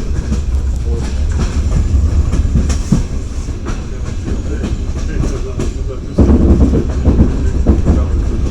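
Passenger train running along the track, heard from inside the carriage: a steady low rumble with the clatter of wheels over the rails. It grows louder about six seconds in.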